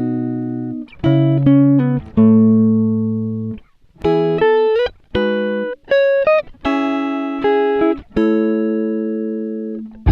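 Background music: a plucked-string melody of single notes, each struck sharply and ringing away, in short phrases with brief gaps.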